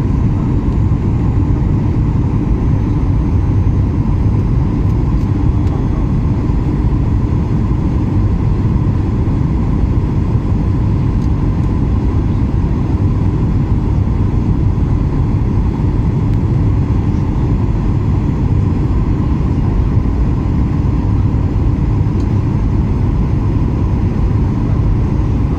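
Jet airliner engines heard from inside the passenger cabin during takeoff: a loud, steady low rumble with a faint steady whine above it.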